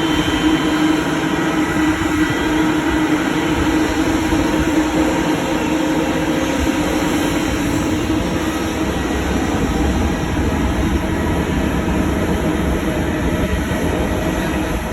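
Jet airliner engines running, a steady loud rumble with a faint hum through it.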